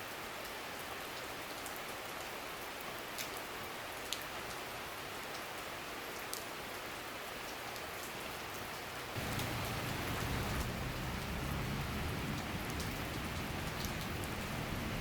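Steady summer rain shower falling, with scattered single drips standing out. About nine seconds in it suddenly turns louder and deeper.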